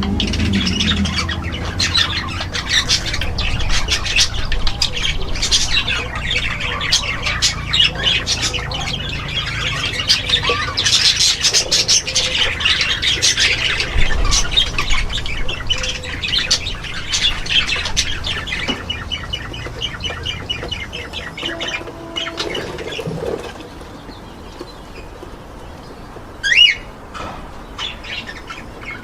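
Many caged birds in an aviary chattering and squawking at once, a dense din of short shrill calls that thins out about two-thirds of the way through, with one louder shrill call near the end.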